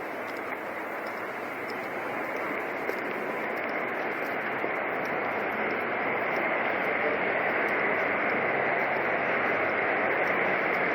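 Steady traffic noise of a motorcade of cars and motorcycles driving past, growing gradually louder.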